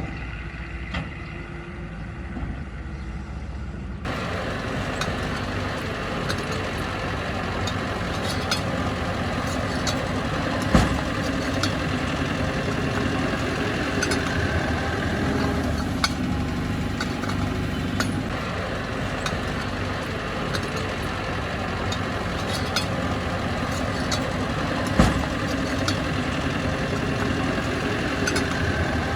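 Bulldozer's diesel engine running steadily, becoming louder and fuller about four seconds in, with frequent short clicks and knocks and two louder knocks, one about eleven seconds in and one near twenty-five seconds.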